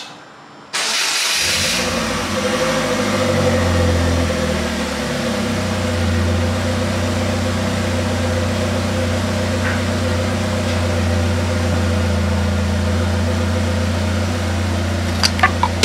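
Polaris Slingshot's engine starting about a second in, rising briefly, then idling steadily.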